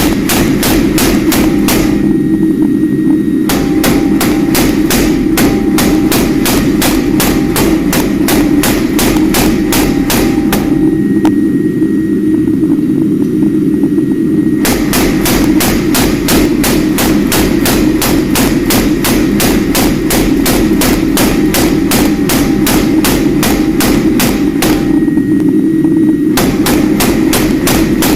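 Steady, rhythmic hammer blows on steel, about three strikes a second: forging knife stock. Under it runs a constant low rumble. The bright ring of the blows drops away three times, for a second or three each.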